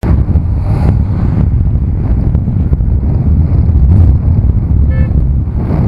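Wind buffeting a bicycle helmet camera's microphone while riding, a loud steady low rumble. About five seconds in there is a very short, high pitched beep.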